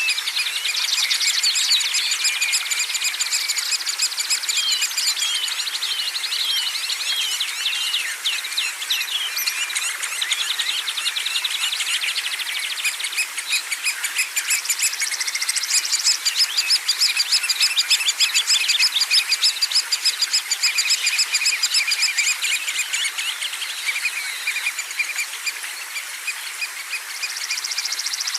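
Songbirds chirping and trilling without pause, many rapid notes overlapping, over a faint steady hiss.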